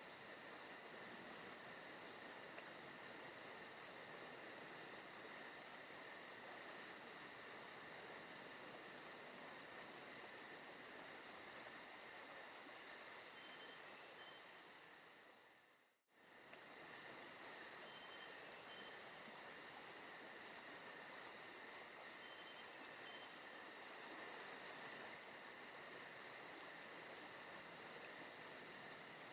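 Recorded forest ambience of crickets chirping steadily in a dense, even chorus. About halfway through it fades out to almost nothing and fades straight back in.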